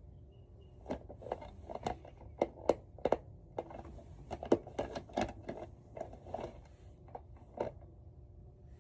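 A run of irregular light taps and clicks, a few a second, starting about a second in and stopping near the end.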